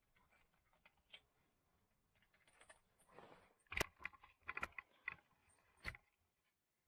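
Faint crackling and clicking from kindling catching fire in a wood stove: a soft rustle, then a handful of sharp cracks spread over a couple of seconds, the rest near silence.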